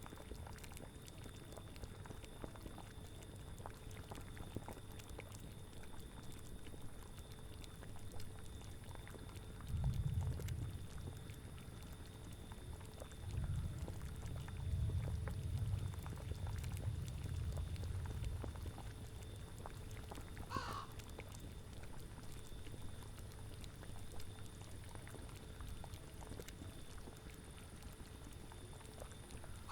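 Layered spooky ambience: a cauldron bubbling steadily with small pops, under low wind that swells in gusts about ten seconds in and again from about thirteen to eighteen seconds. A short animal call sounds once about two-thirds of the way through.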